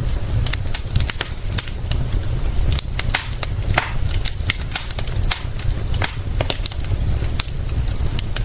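Wood fire crackling with many irregular sharp pops and snaps, over a steady low rumble and a soft hiss of rain.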